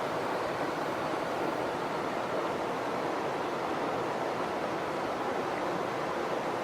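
Mountain stream water rushing over rocks, a steady even rush with no breaks.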